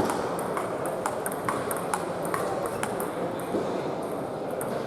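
Table tennis ball clicking off bats and table in a rally, about two hits a second, with other scattered ball clicks over a steady background murmur.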